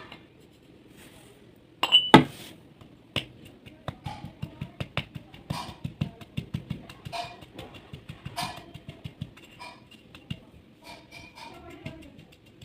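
Baked clay pieces (mitti ki barfi) breaking and crumbling with crisp crunches and clinks. A loud snap comes about two seconds in, then a quick run of many small cracks.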